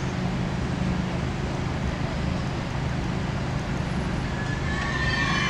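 Low, steady rumble of a passenger train on the broad-gauge line, joined about four seconds in by a high-pitched metallic squeal from its wheels that keeps building.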